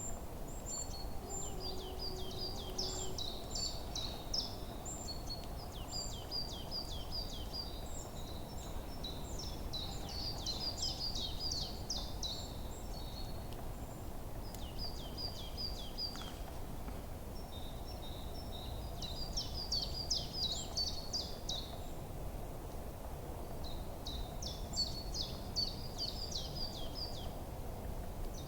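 Forest birdsong: small birds chirping and trilling in quick runs of high notes that come in bouts every few seconds, over a steady low background rumble.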